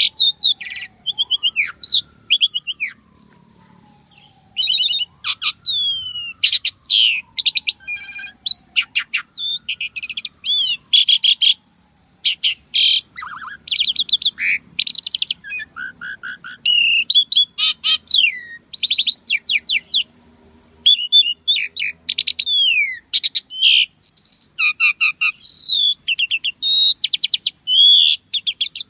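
Asian pied starling (jalak suren) singing non-stop, a rapid, varied stream of whistles, sweeping notes and clicking chatter, with slow falling whistles through the first several seconds. The song is full of mimicked phrases ('full isian').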